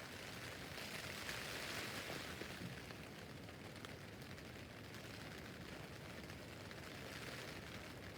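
Rain falling on a tent roof: a steady hiss dotted with many small drop taps, swelling louder for a second or two about a second in.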